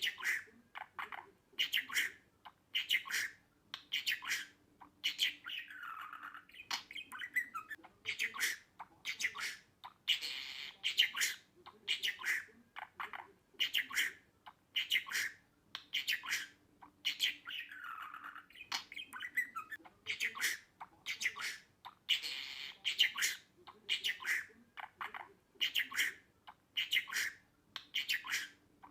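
Budgerigar chattering in quick runs of sharp chirps and squawks, the same sequence repeating about every eleven seconds.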